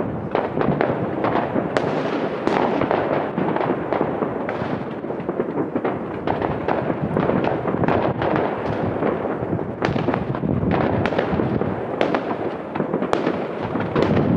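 Dense, continuous barrage of New Year's fireworks and firecrackers: many overlapping bangs and crackles with no break.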